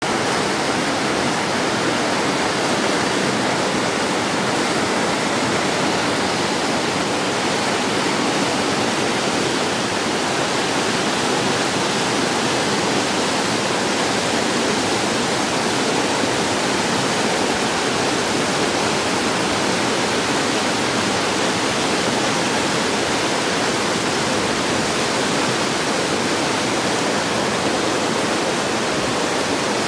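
Fast-flowing mountain river rushing steadily, swollen with rainwater.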